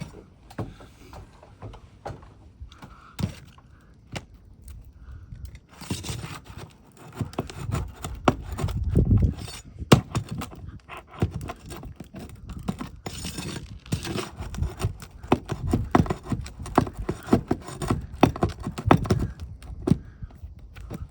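Roofing flat bar prying nails out of asphalt shingles: repeated metal clicks and knocks with scraping against the shingle, sparse at first, then dense and louder from about six seconds in.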